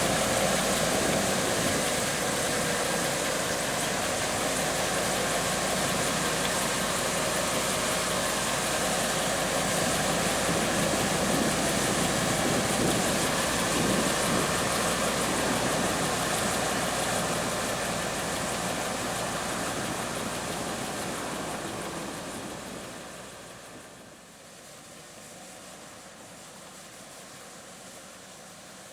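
Diesel farm harvest machinery running steadily, then falling away to a much quieter background noise about three-quarters of the way through.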